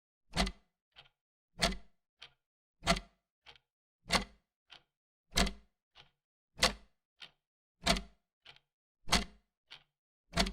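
Clock ticking in an even rhythm: a loud tick alternating with a fainter tock, roughly one click every 0.6 seconds.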